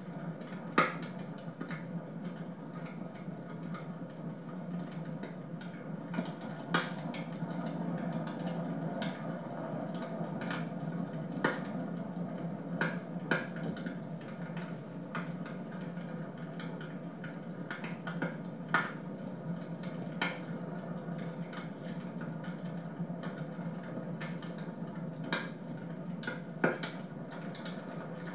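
Wood fire in a fireplace crackling, with irregular sharp pops over a steady low hum.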